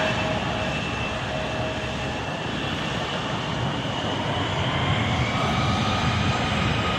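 Turbofan engines of a CRJ900 regional jet running at high power: a steady jet roar with thin whining tones that slowly shift in pitch.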